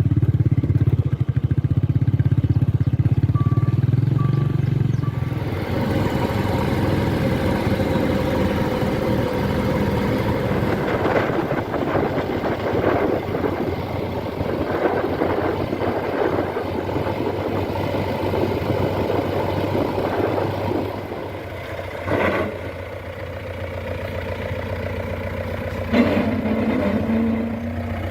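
Diesel engines of a backhoe loader and tractors running under working load, the note changing and getting fuller about five seconds in. There are a couple of sharp clanks from the machinery later on.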